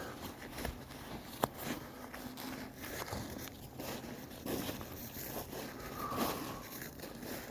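Footsteps and rustling handling noise while walking, irregular and uneven, with one sharp click about a second and a half in.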